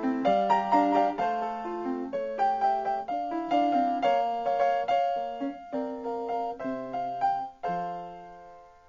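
Background piano music, a melody over chords, ending on a final chord about three quarters of the way through that fades away.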